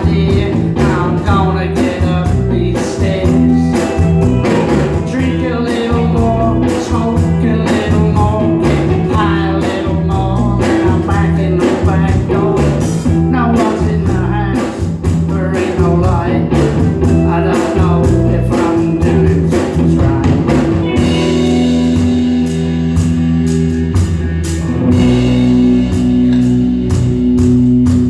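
Live rock band playing: vocals over electric guitars, bass and drums, with a steady drum beat; the singing drops out after about 21 seconds and held guitar notes carry on.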